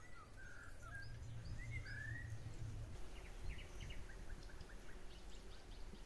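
Songbirds calling: a few short gliding whistles in the first two seconds, then quick runs of short chirping notes, over a faint outdoor background.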